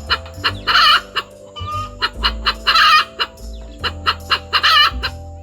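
Hen-like clucking, a quick regular run of about four clucks a second. It breaks into a loud drawn-out cackle three times, about every two seconds.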